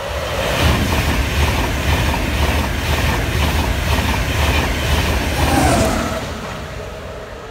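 An express passenger train passing close at speed: a loud rush of wheels on rail with regular clickety-clack. A falling tone comes as it goes by, and then the sound fades away.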